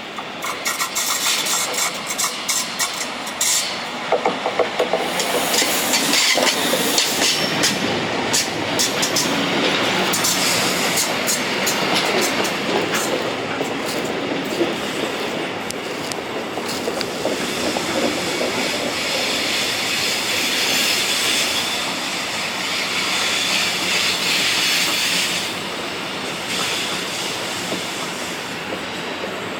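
A train passing on the track, its wheels clattering over the rails with many sharp clicks and a high wheel squeal on the rails.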